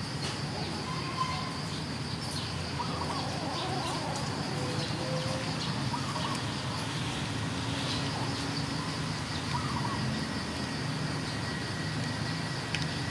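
Outdoor background: a bird gives a short call about every three seconds, four times in all, over a steady high-pitched buzz and a low background rumble.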